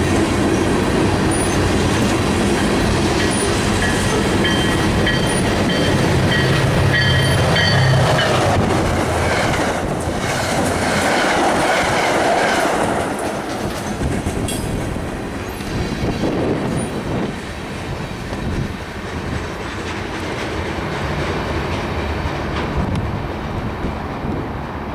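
Freight train rolling past with wheel clatter and some wheel squeal. An MBTA commuter train passes close on the near track about ten seconds in, which is the loudest part. After that the train noise eases off as the freight's last cars pull away.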